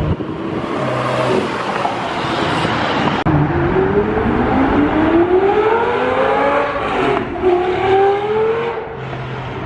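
A sports car engine at full throttle, accelerating hard: the pitch climbs for about three and a half seconds, drops at an upshift about seven seconds in, and climbs again.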